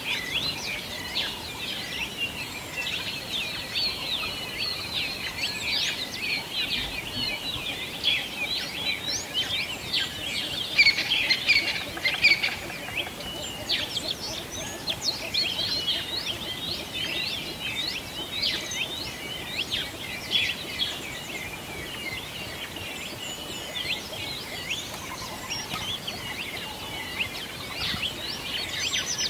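A dense chorus of small songbirds: many quick, overlapping chirps and twitters that run on without a break, busiest about ten to thirteen seconds in.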